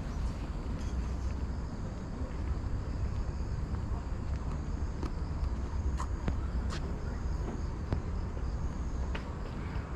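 Outdoor walking ambience: a low, steady rumble with faint, steady, high-pitched insect chirring over it and a few light clicks.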